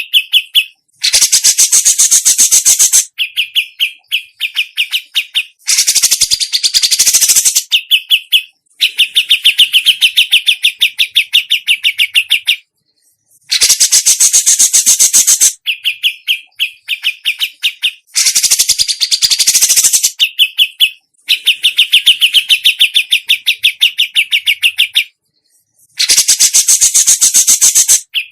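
Songbird song, recorded close and loud. Dense, buzzy, high trills about two seconds long alternate with fast runs of sharp, rapid notes, and the sequence repeats several times with brief pauses.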